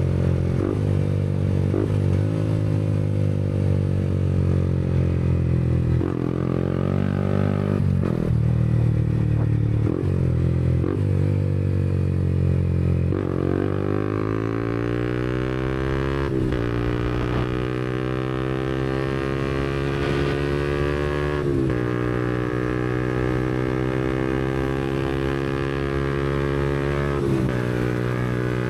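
Yamaha MT-125's single-cylinder four-stroke engine running through a Black Widow aftermarket exhaust while riding. The revs climb and then drop sharply about ten times, with a longer steady climb about halfway through.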